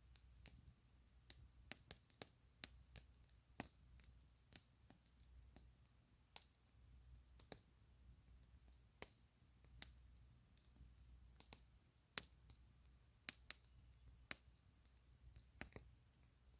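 Campfire crackling quietly: irregular sharp snaps and pops from the burning wood, roughly two a second, over a faint low rumble.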